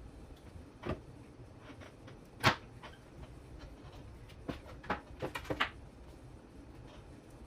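Scattered sharp clicks and knocks of small parts and tools being handled on a workbench. The loudest knock comes about two and a half seconds in, and a quick run of clicks follows around five seconds in.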